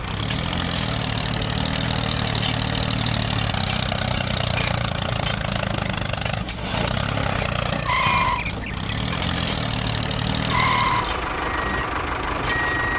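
A vehicle engine runs steadily with a low hum, and a short high beep sounds about eight seconds in and again about three seconds later.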